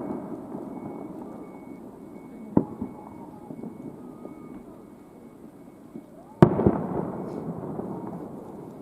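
Aerial fireworks shells bursting: a sharp bang about two and a half seconds in, then a louder bang about six and a half seconds in, each followed by a rumbling echo that dies away.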